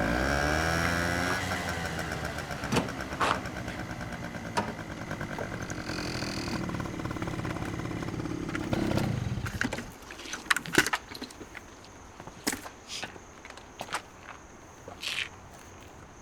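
A vehicle engine running, its pitch shifting in the first second or so, then cutting out about ten seconds in. After that, crickets chirp steadily with a few scattered clicks and knocks.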